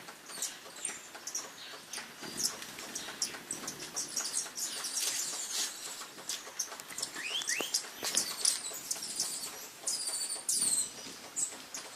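Hummingbirds chattering: a busy stream of high-pitched chips and short falling squeaks from several birds at once.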